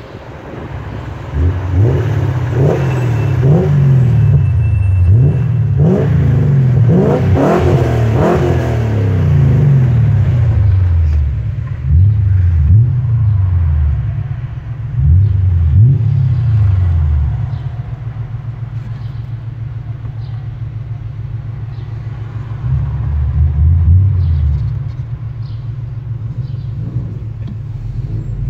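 Dinan-tuned BMW E39 M5's 4.9-litre V8 revved while stationary: a series of quick throttle blips, the engine note climbing and falling again and again for the first half. It then settles to a steady idle, with one more short rev near the end.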